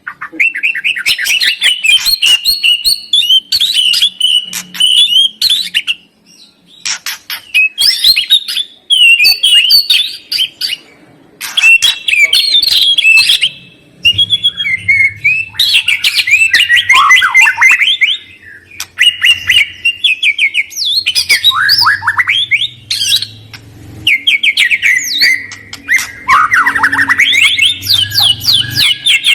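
Songbird singing a loud, varied song of rapid clicking trills and sweeping whistled phrases, delivered in bursts with short pauses between them.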